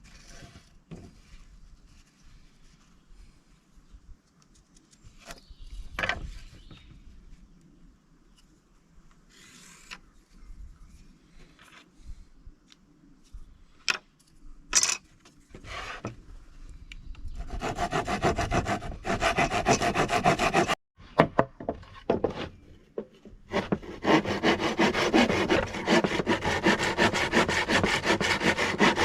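A saw cutting through wood in rapid, continuous strokes. The cutting starts after a stretch of scattered knocks and handling of the wood, stops briefly, and then resumes.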